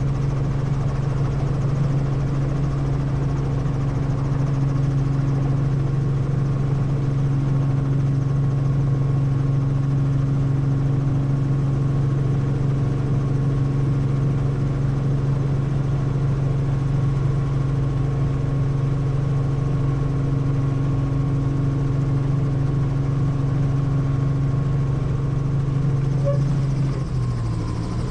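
Helicopter running steadily: a deep, even drone of the rotor and turbine with higher steady tones above it. The pitch steps down slightly about a second before the end.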